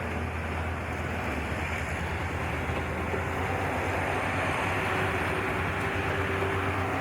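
Train running along the track: a steady rumble that grows slightly louder, with faint steady tones coming in during the second half.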